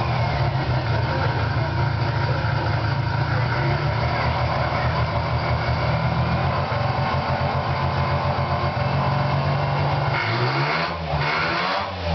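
Mazda RX-500's 10A two-rotor rotary engine running at a steady idle, then revved up and down a couple of times near the end.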